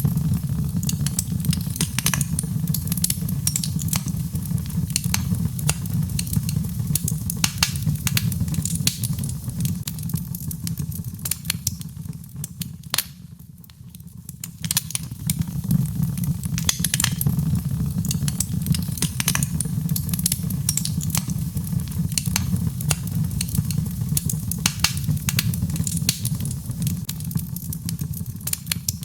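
Birchwood fire burning in a fireplace: a steady low rumble of flames with dense, irregular crackles and pops from the burning wood. The crackling thins and quietens briefly about halfway through, then picks up again.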